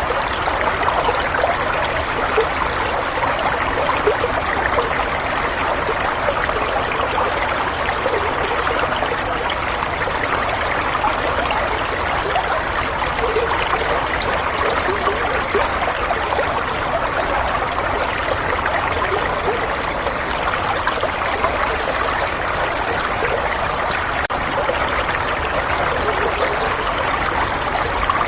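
Steadily flowing water, an even rush with small gurgles scattered through it.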